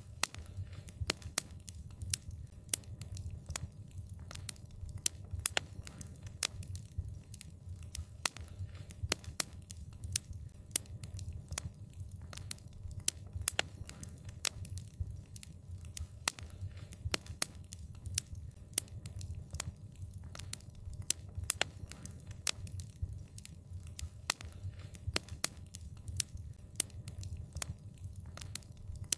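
Wood fire crackling: many quick, irregular sharp pops over a steady low rumble.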